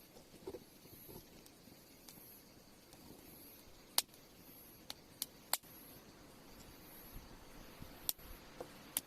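Wood campfire burning quietly, with a handful of sharp pops and snaps from the burning wood; the loudest comes about four seconds in and three more follow within two seconds.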